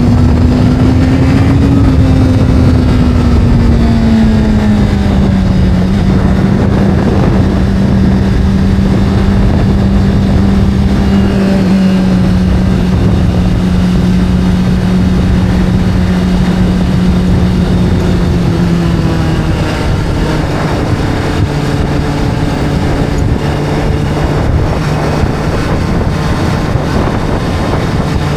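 Motorcycle engine running at steady cruising revs, its note rising slightly about two seconds in and then easing down in two steps, over a constant rushing noise.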